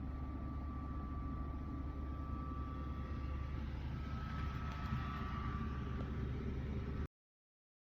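Small air dehumidifier running: a steady low hum with a thin, constant whine above it. The sound cuts off abruptly about seven seconds in.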